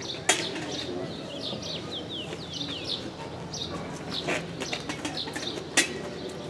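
Small birds chirping over and over in short falling notes, above the low murmur of a crowd. There are two sharp knocks, one just after the start and one near the end.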